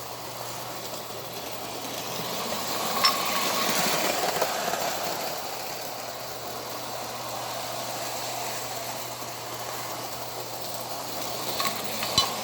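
Toy electric train set running on its track: a steady whirring motor and rolling wheels with a constant low hum, and a few sharp clacks about three seconds in and again near the end.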